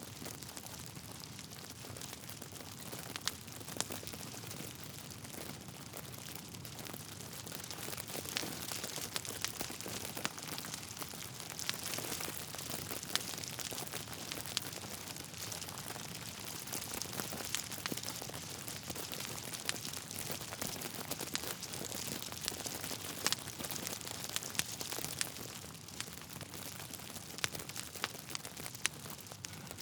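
Logs burning in a fireplace: a steady hiss of flame with frequent sharp crackles and pops, busiest through the middle stretch.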